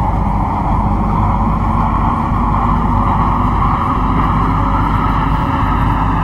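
MTR Kwun Tong line C-Train metro train running: a steady low rumble with a hiss of wheels on rail, unchanging throughout.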